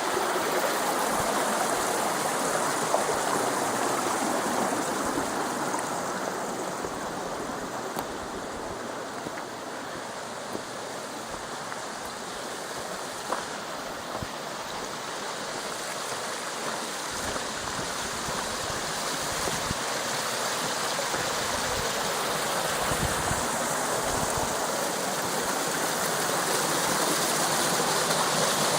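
Steady rush of a mountain stream's water running over rocks, loudest at the start and near the end and quieter in the middle, with a few faint knocks.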